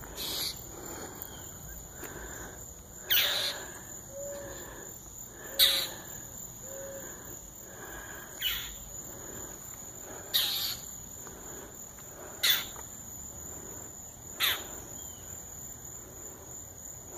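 A bird giving short, sharp calls that sweep downward in pitch, seven of them about two seconds apart: the bird scolding a cat it is harassing.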